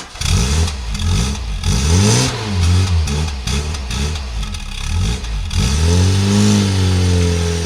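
Engine revving in a series of short revs, its pitch swinging up and down, then one longer rev that rises and holds about six seconds in.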